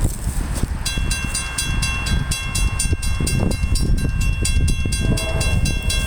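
CSX freight train led by a GE CW44AH diesel locomotive rumbling past a grade crossing. About a second in, a crossing bell starts ringing rapidly over the rumble.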